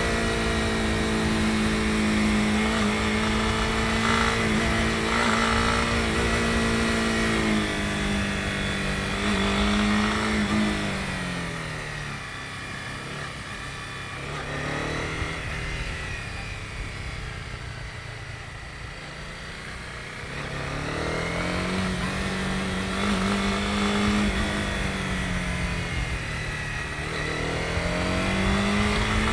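Honda CB250R's single-cylinder engine running under way at steady revs. About ten seconds in the revs fall and the engine runs low and quiet for several seconds, then picks up again about twenty seconds in, easing briefly once more near the end.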